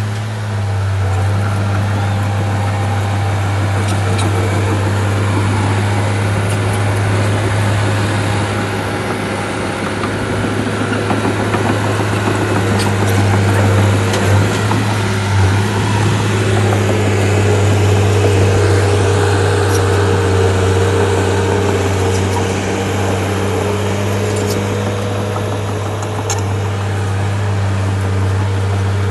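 Bulldozer's diesel engine running steadily under load with a deep, even hum, a little louder in the middle, and a few faint metallic clanks over it.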